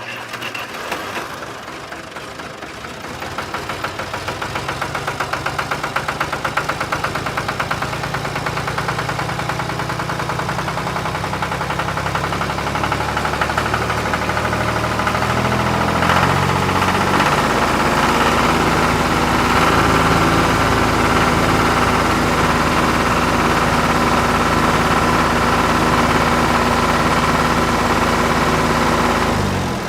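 Tractor engine running with a steady rhythmic chug, building up over the first few seconds, then holding even until it drops away near the end.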